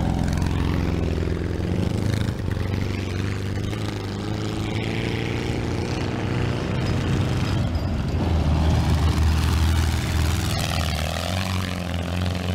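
Air-cooled VW Beetle race-car engines running hard, their pitch rising and falling with the throttle, loudest about eight to ten seconds in.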